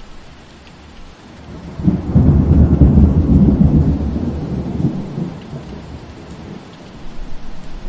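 Steady rain falling, with a low rumble of thunder swelling in about two seconds in. The thunder is loudest for about three seconds, then dies away under the rain.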